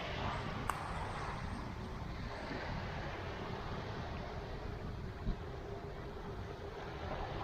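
Steady street traffic noise with a low rumble from passing vehicles. There is a sharp click about a second in and a short knock about five seconds in.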